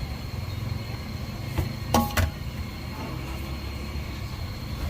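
Steady low rumble of street traffic, with a few sharp metallic clinks about two seconds in, two of them ringing briefly.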